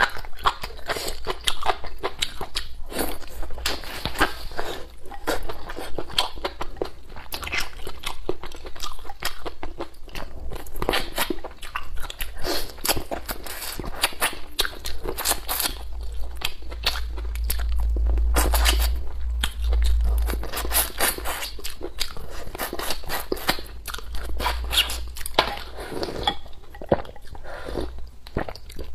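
Close-miked eating: a person chewing and crunching chicken and crisp velvet antler mushrooms from a bowl of chicken soup, with wet mouth sounds and slurps, in irregular bites. A low rumble swells for a few seconds around the middle.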